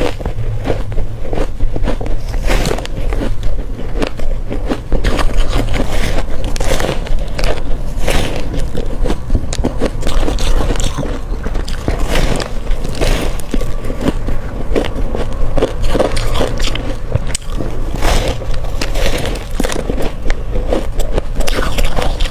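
Crushed ice being bitten and crunched in the mouth: a dense, continuous run of crackling, crunchy bites with no real pause.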